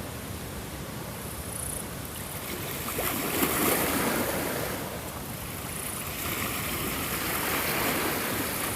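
Ocean waves washing onto a shore, one wave swelling about three seconds in and another building near the end.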